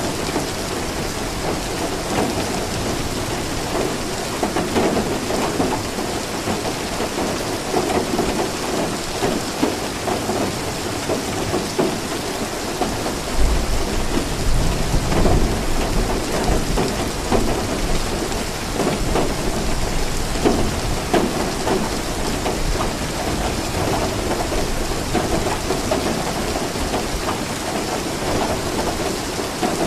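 Steady heavy rain with a low rumble of thunder rolling through about halfway.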